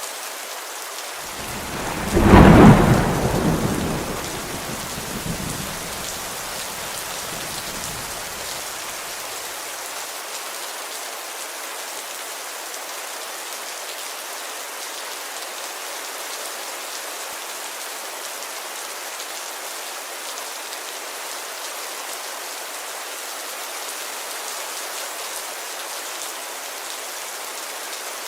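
Steady rain pattering on a window, with one loud thunderclap about two seconds in that rumbles away over the next several seconds.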